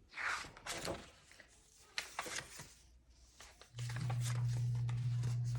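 Rustling and soft knocks of a paper book being handled, then a steady low hum that starts about two-thirds of the way through.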